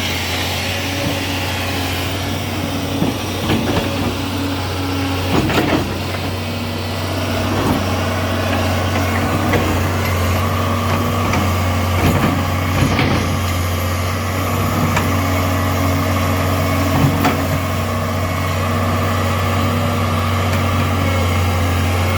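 Excavator's diesel engine running steadily at idle, a deep even hum, with a few short metallic knocks and clatters now and then.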